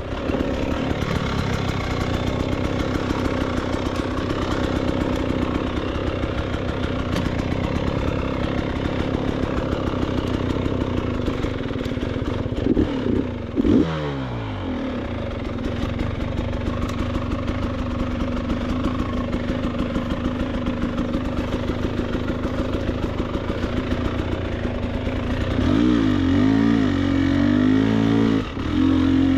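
Dirt bike engine running steadily under way. The revs drop and pick up about 14 seconds in, and it is revved up and down several times near the end.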